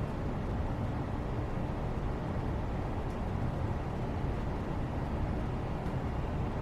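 Steady low background rumble, an even noise with no tones or rhythm that stays unchanged throughout, with two faint ticks around the middle and near the end.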